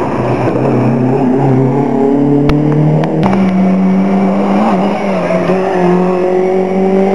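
Historic rally car engine running hard at high revs as the car drives past on a rally stage. Its pitch steps up about three seconds in and then holds steady. A couple of sharp clicks are heard as well.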